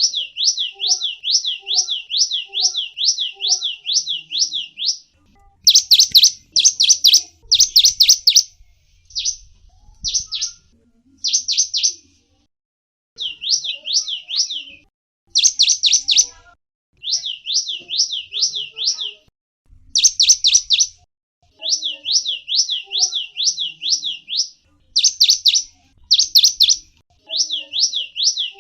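A gelatik wingko singing: long runs of rapid, high sweeping notes, about three a second, broken by short pauses, with a few louder, sharper phrases in between.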